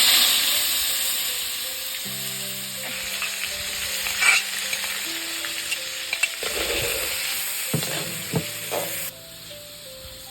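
Food frying in hot oil in a pan, a loud sizzle that starts suddenly as the food goes in and slowly fades, with stirring scrapes and clicks of the utensil against the pan; it cuts off about a second before the end. Quiet background music plays underneath.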